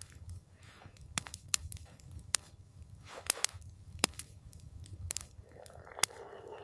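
Wood campfire crackling: irregular sharp pops and snaps over a low steady rumble of the flames.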